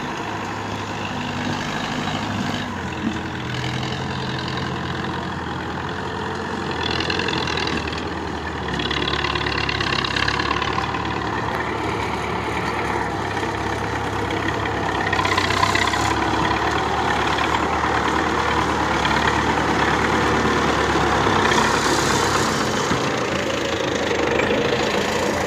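Belarus 510 tractor's diesel engine running steadily, getting louder past the halfway point.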